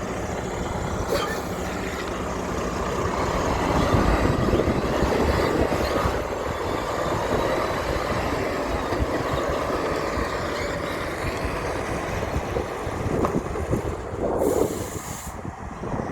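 Heavy truck running past, engine and tyre noise swelling about four seconds in, with a short hiss near the end.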